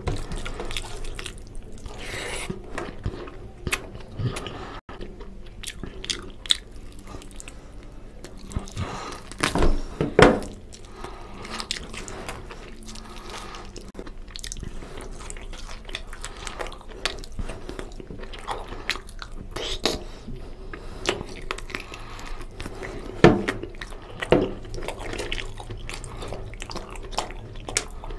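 Close-miked chewing and wet mouth sounds of a person eating mutton curry and rice by hand, with many small clicks and smacks. A few louder bites come about a third of the way in and again past three-quarters.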